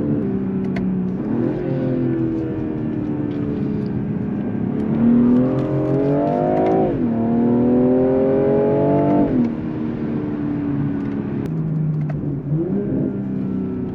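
BMW M340i's turbocharged 3.0-litre inline-six and exhaust pulling hard under acceleration. The engine note climbs and drops sharply at a quick upshift about halfway through, then climbs again and drops at a second shift a couple of seconds later.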